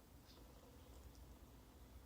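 Near silence: room tone with a low hum and a couple of very faint small ticks.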